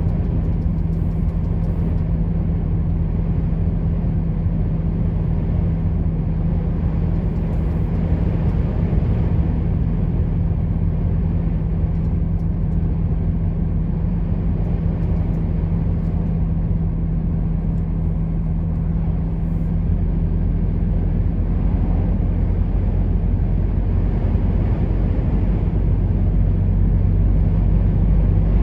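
Truck engine running steadily under way, its low drone mixed with road and tyre noise. The engine note shifts about three quarters of the way through and grows a little louder toward the end.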